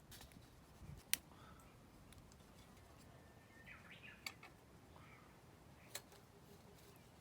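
Near silence with three faint sharp clicks, spread over several seconds, and a few faint high chirps.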